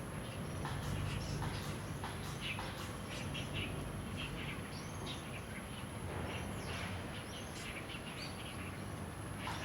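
Birds calling: many short chirps and whistled, rising and falling notes in quick succession, over a steady low background rumble.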